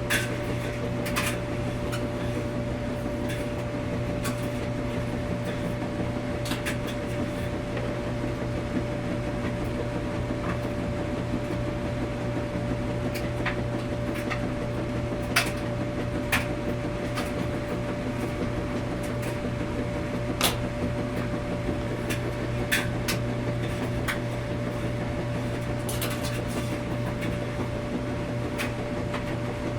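Washing machine running with a steady hum and a constant tone, with sharp clicks and light rattles at irregular moments.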